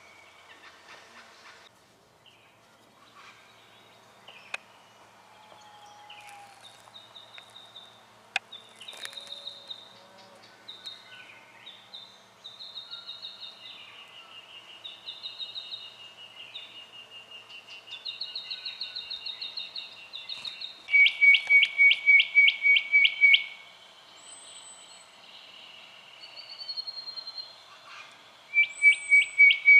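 Spotted quail-thrush calling: high, thin whistled notes and a long trill, then a loud, fast run of evenly spaced notes about two-thirds of the way in, starting again near the end.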